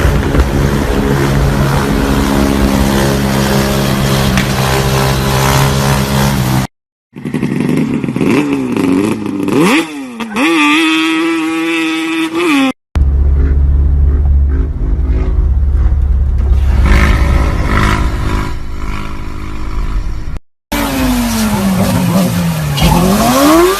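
Motorcycle engines heard in four short back-to-back clips, each cut off abruptly with a brief silence between. They run steadily in places and rev in others, the pitch swinging up and down; in the last clip it drops and then climbs sharply.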